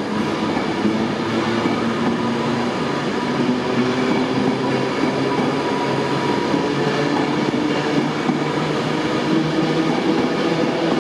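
Class 390 Pendolino electric multiple unit pulling out of the platform: a steady electric hum of several tones over the rush of wheels on the rails.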